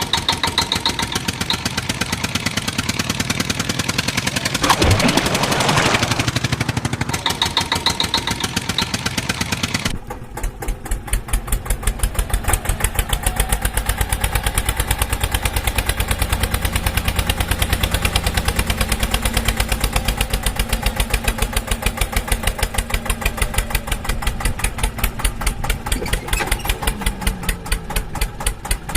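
Farm tractor's diesel engine running with a steady, rapid knocking beat. A brief louder rush of noise comes about five seconds in, and at about ten seconds the sound changes abruptly to a heavier, deeper pulse.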